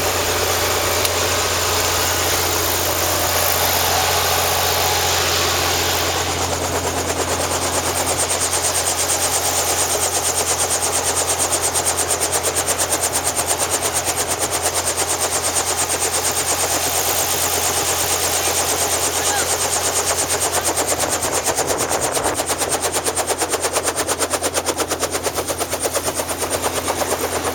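Helicopter running loudly, a steady low hum under heavy noise; from about six seconds in the rotor's fast, even chop comes through and keeps on.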